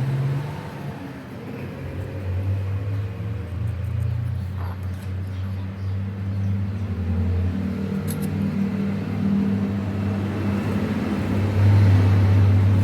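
A motor-driven machine running with a steady low hum, growing louder near the end.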